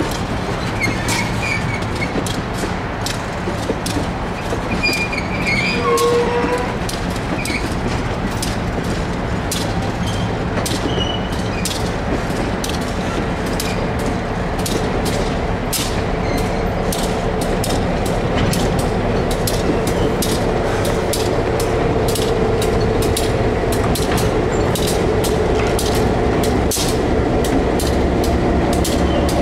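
Passenger railroad coach rolling along, heard from inside the car: a steady low rumble with frequent sharp clicks from the wheels on the track. There are a few short squeals in the first several seconds, and the rumble grows a little louder and fuller in the second half.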